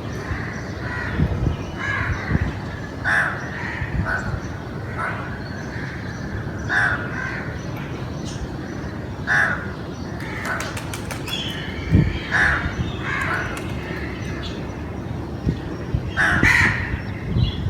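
Crows cawing repeatedly, short harsh calls every second or few, over a steady low background rumble.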